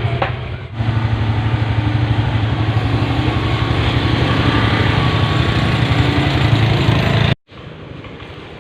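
A small engine running steadily with a fast, even pulse. It cuts off abruptly near the end, leaving a quieter hum.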